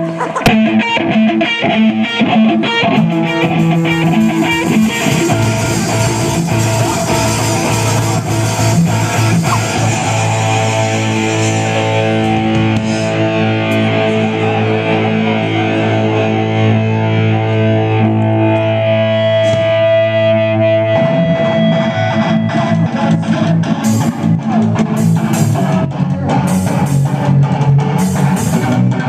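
A rock band playing, led by electric guitar with effects and distortion. Long held chords ring for a stretch, then about two-thirds of the way through the playing changes to choppier rhythmic strumming.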